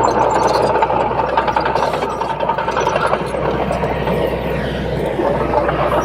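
Bulldozer's diesel engine running steadily, a loud, even drone.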